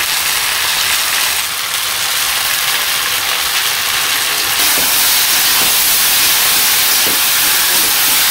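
Vegetable strips sizzling in hot oil in an aluminium wok, a steady hiss that grows a little louder about halfway through. Near the end a spatula starts stirring them against the pan.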